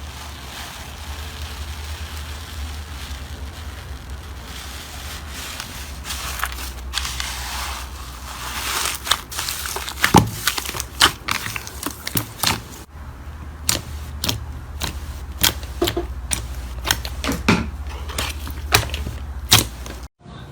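Slime being squeezed and pressed, giving a soft crackling hiss that grows into louder crackles and then, after a brief break about two thirds of the way in, a quick run of sharp clicking pops. A steady low hum runs underneath.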